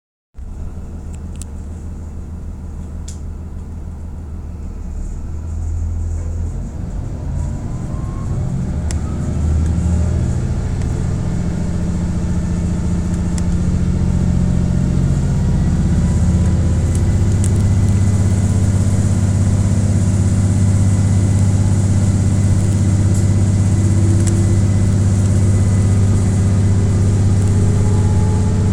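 KiHa 48 diesel railcar's engine heard inside the car, building up over the first ten seconds or so and then running steadily loud under power, with a few faint clicks.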